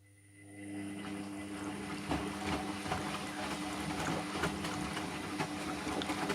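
Hotpoint washing machine taking in water at the start of a wash: the inlet valve opens, and water rushes in and splashes, with a steady hum over the flow. The sound builds over the first second, then holds steady.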